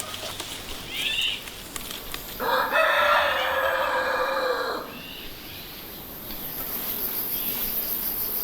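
A rooster crowing once: one long call of about two and a half seconds near the middle.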